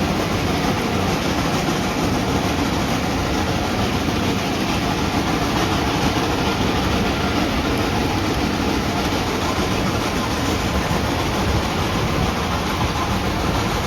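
Steady running noise of a steam excursion train heard from aboard a passenger car: an even rumble and rattle of the cars on the track as the train climbs.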